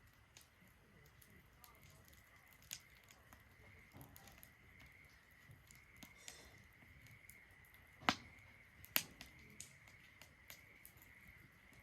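Wood fire burning in a Solo Stove Ranger fire pit: faint crackling with scattered small snaps and two sharper pops about eight and nine seconds in. A faint steady high tone sits underneath.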